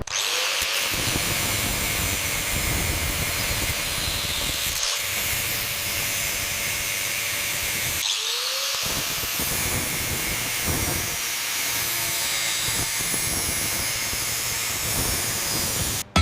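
Power tool cutting into a rusted-shut metal safe, running steadily with a dense, harsh noise. It stops briefly about halfway through, then restarts with a short rising whine as it spins back up.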